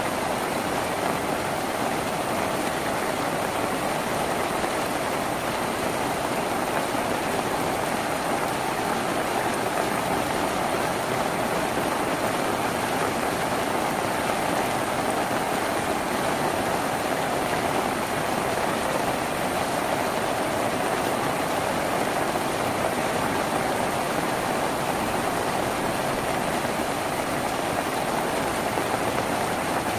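Steady rain falling on a tin roof, a dense, even patter without a break.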